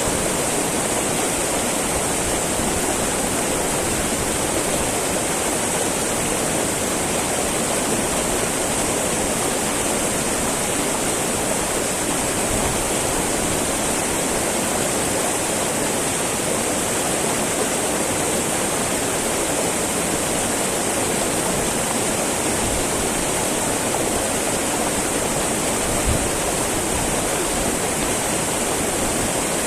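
Small mountain river babbling and rushing over rocks in a steady, even flow, with a faint low bump about 26 seconds in.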